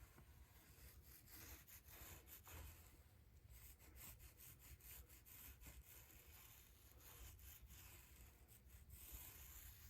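Faint, irregular rubbing and scraping as resin-wet fiberglass cloth is worked down onto a drum shell.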